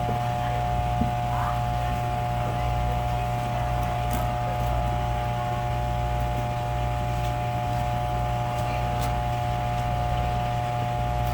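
Steady machine hum, with a few faint ticks.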